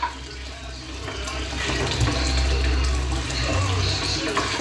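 Kitchen tap running water, coming on about a second in and then running steadily.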